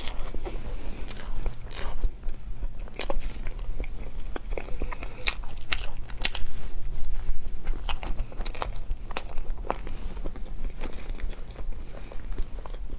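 Close-miked chewing and biting of a soft mango crepe towel roll filled with cream and chiffon cake, with many irregular sharp mouth clicks and smacks.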